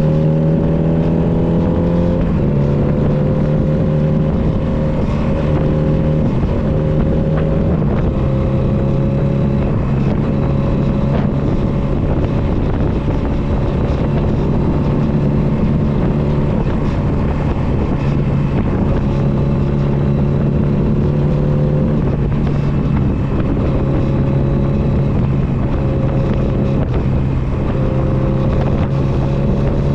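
Honda CB250 Nighthawk's air-cooled parallel-twin engine running under way. The engine note climbs, then drops suddenly about two seconds in on an upshift. It holds a steady cruising pitch and starts climbing again near the end.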